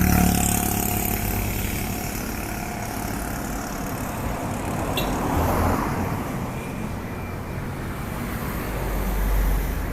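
Road traffic: motor vehicles running and passing close by, a steady rumble with a short click about five seconds in.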